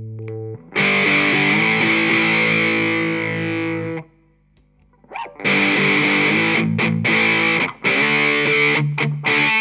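Heavily distorted electric guitar, played through a heavy metal distortion pedal boosted by an Ibanez TS9 Tube Screamer into a Laney amp. A ringing chord is cut off about half a second in, then sustained playing runs for about three seconds. After a pause of about a second and a half comes a riff broken by short, sharp stops.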